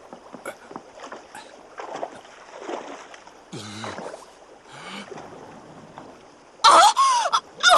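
Bathwater sloshing and splashing as a person climbs into a tub, with a couple of short low vocal sounds midway. Near the end a loud voice cries out.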